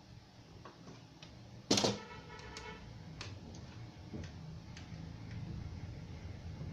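A sharp clatter about two seconds in, like a small hard object set down or dropped on a work surface, ringing briefly, followed by scattered light clicks of small parts and tools being handled.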